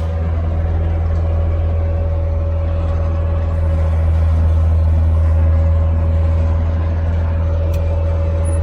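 Skid steer's newly swapped-in engine running steadily, with a strong low hum and a constant higher tone over it.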